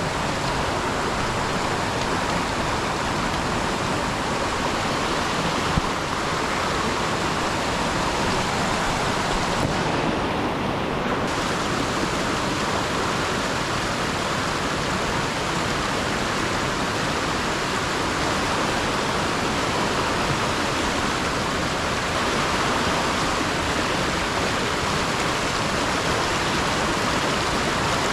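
Steady rushing of water, an even hiss with no breaks; its high part dulls briefly about a third of the way in.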